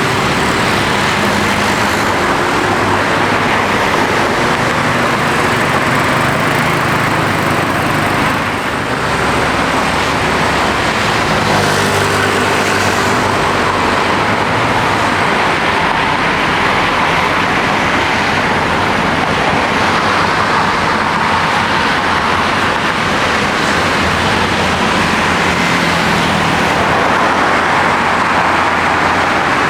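Airliner jet engines running, a loud, steady rush with a low drone under it. There is a brief dip about nine seconds in, where the Boeing 737-800 gives way to an Airbus A320-200.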